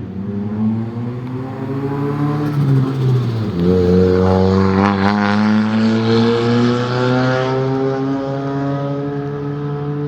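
A car engine accelerating, its note rising, dropping sharply about three and a half seconds in, then climbing steadily again.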